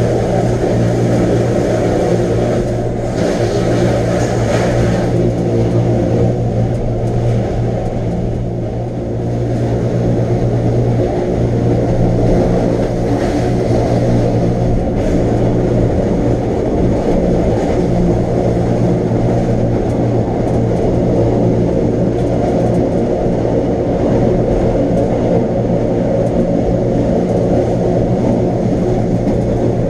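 Wengernalpbahn rack-railway train running, with a steady low electric hum over the rumble of the wheels. There is a brief hiss about three to five seconds in.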